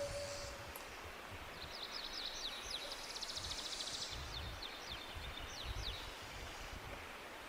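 Forest ambience with a songbird singing: a series of quick high notes and a fast trill in the first half, over a steady background hiss and a low, uneven rumble.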